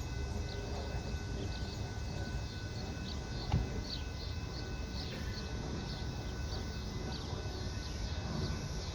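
Steady low rumble of a train on the tracks, with one sharp click about three and a half seconds in and faint high chirps scattered through.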